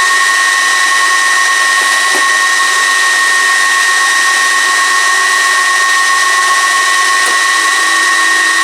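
Gigabyte R180-F34 1U rack server's cooling fans running at full speed during its power-on self-test: a loud, steady rushing whine with two high fan tones held throughout. It is far from quiet, the fans' full-speed jet-engine mode before they ramp down after posting.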